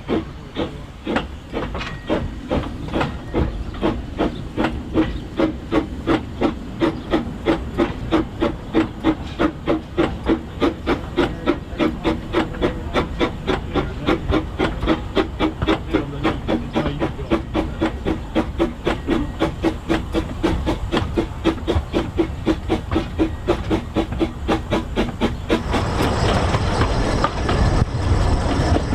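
Narrow-gauge steam locomotive working, its exhaust beats coming evenly at about three to four a second. A louder rushing noise joins near the end.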